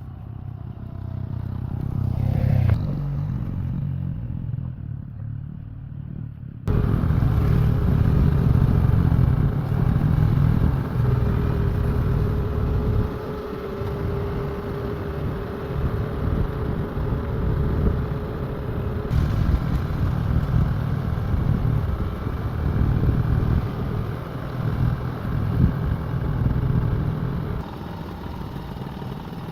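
A motor vehicle's engine running steadily with a dense low rumble, becoming abruptly louder about seven seconds in.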